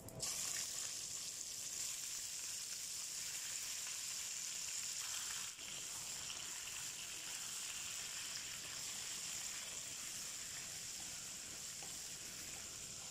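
Raw chicken pieces sizzling in hot oil in a wok with fried onions and cumin seed: a steady, high frying hiss that starts suddenly as the meat goes into the pan.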